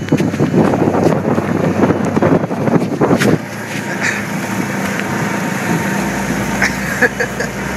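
Golf cart running over rough trail ground, with jolts and rattling for the first few seconds, then a steadier running hum.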